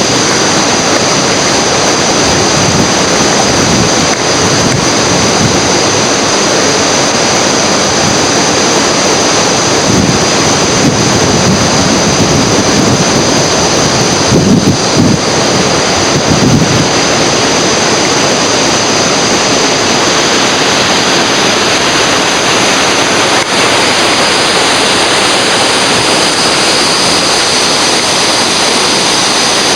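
Loud, steady rush of whitewater in river rapids, with wind on the microphone. It swells briefly about halfway through.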